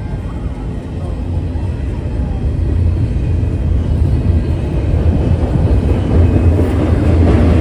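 Diesel freight locomotives running with a steady low rumble, growing gradually louder as the train draws closer.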